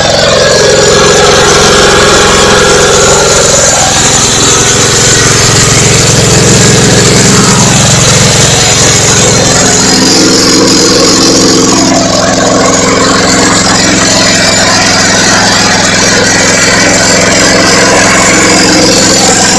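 Yanmar diesel engine of a converted MEP-016D 3 kW military generator set running steadily and loudly.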